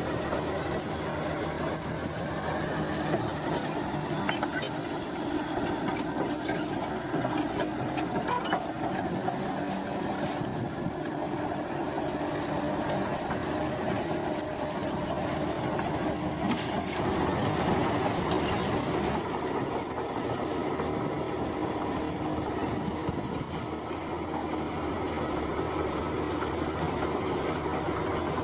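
Crawler bulldozer working: its diesel engine runs steadily while the steel tracks clank and squeal.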